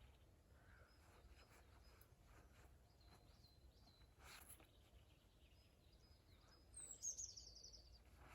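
Near silence with faint birdsong: short high chirps repeating, and a brief falling trill about seven seconds in, over a low steady hum.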